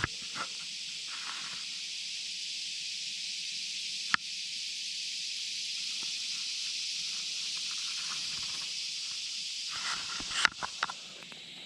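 Steady, high-pitched insect chorus droning without a break, with a single sharp click about four seconds in and some brief rustling and knocking near the end.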